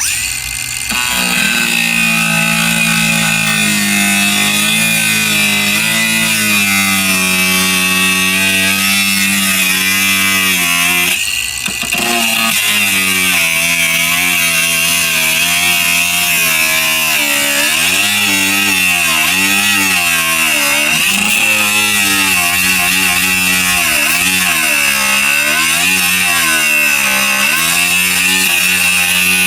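Angle grinder with a cutting disc cutting out rusted steel from a car's sill, the motor whining steadily. Its pitch sags and recovers again and again as the disc bites into the metal, with a brief break about a third of the way through.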